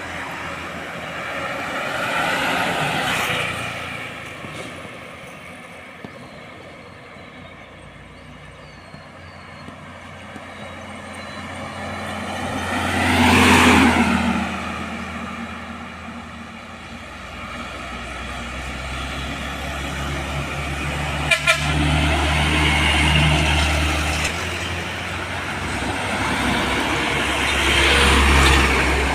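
Heavy trucks passing by on a road one after another, each swelling and fading. The loudest passes close about halfway through. There is a short clatter a little past two-thirds of the way.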